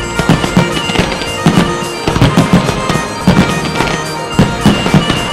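Aerial fireworks shells and comets bursting in rapid succession, two or three sharp bangs a second, over loud music with long held notes.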